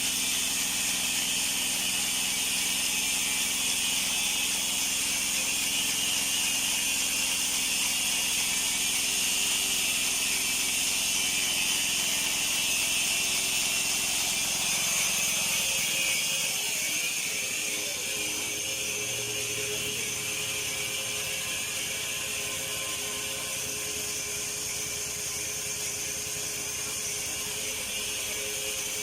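Portable bandsaw mill running, with a steady high hiss over a lower engine hum. About halfway through, the low hum drops away and the sound gets a little quieter.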